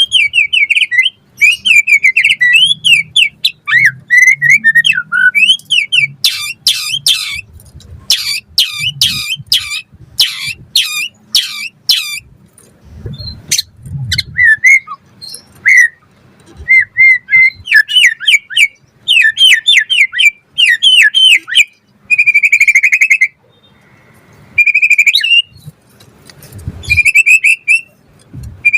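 White-rumped shama (murai batu) singing a loud, varied song of clear whistled phrases, rapid runs of chattering notes, and longer held whistles, broken by short pauses.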